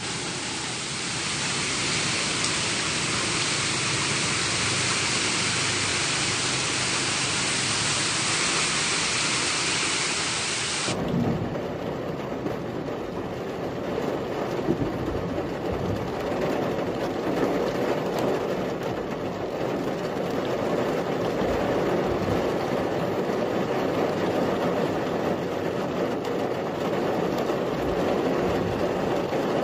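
Heavy rain pouring down on a flooded street, a steady hiss. About eleven seconds in it changes to a lower, rougher wash of rain and running floodwater, with cars and motorbikes driving through the water.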